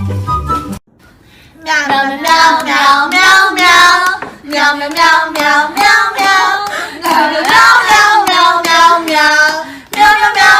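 A high, wavering voice in a run of sung phrases with no clear words, following a burst of music that cuts off about a second in.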